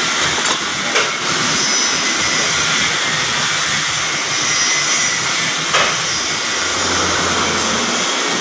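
A loud, steady rushing hiss, with two light knocks: one about a second in and one near six seconds.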